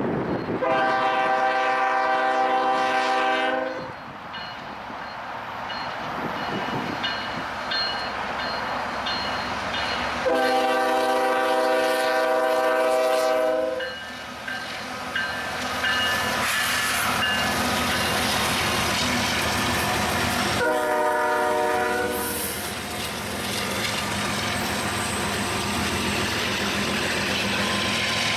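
Diesel freight locomotive's multi-chime air horn sounding two long blasts and then a short one, the opening of the long-long-short-long grade-crossing signal. Between the blasts the train rumbles and its wheels clatter over the rails, growing louder in the second half as it passes.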